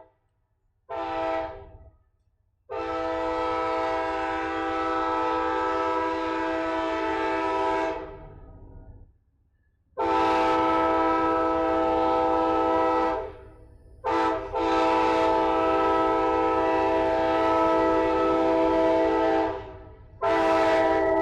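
Amtrak locomotive's multi-chime air horn blowing a chord in repeated blasts: a brief toot, then long, long, short, long, the grade-crossing warning pattern, with another long blast starting near the end.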